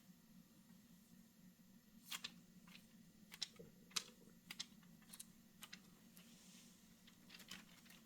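Faint, irregular clicks and taps, about ten of them, over a low steady hum.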